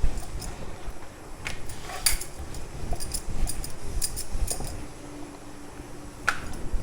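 Rolling pin rolling out phulka dough on a rolling board: a low rumble with scattered light clicks and taps.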